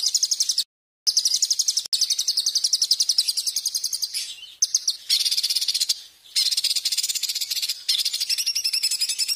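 Songbird giving a rapid, harsh, high-pitched trilling chatter of fast repeated notes. The recording is spliced, so it breaks off abruptly into a short silence near the start and changes pattern a few times.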